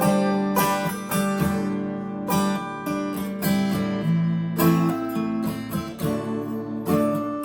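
Acoustic guitar strumming chords in a steady rhythm: the instrumental intro before the singing comes in.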